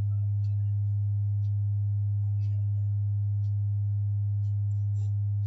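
Steady pure sine test tone of about 100 Hz from a tone generator, held at one pitch, played to check the lower limit of hearing.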